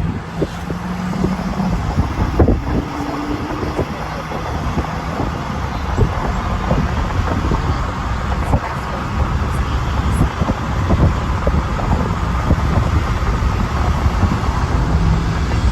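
Motor vehicle noise: a steady, loud low rumble with an engine hum that is clearest near the start and again near the end, and light clicks throughout.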